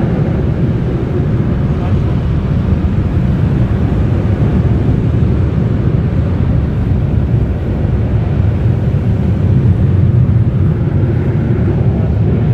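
Car wash dryer blowers running, a loud, steady rush of air heavy in the low end.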